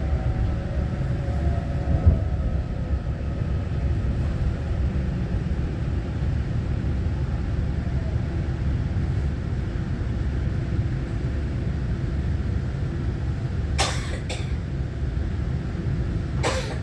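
Inside the carriage of a Taiwan Railway EMU900-series electric multiple unit while it runs: a steady low rumble of wheels and running gear on the track. There is a knock about two seconds in and two sharp clicks near the end.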